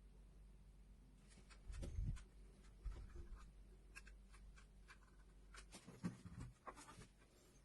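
Faint scratching and light clicks of small handwork, with soft low thumps about two seconds in and again about six seconds in.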